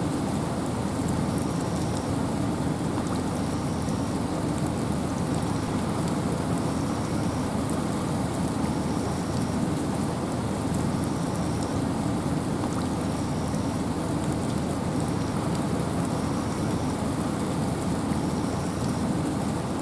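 Steady rain and wind in a forest, an even rushing noise with a deep low rumble. A faint short high chirp repeats about every second and a half.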